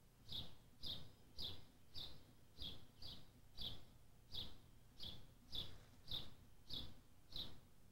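A bird chirping over and over in a quiet residential street, about two short, high chirps a second at a steady pace, over faint background noise.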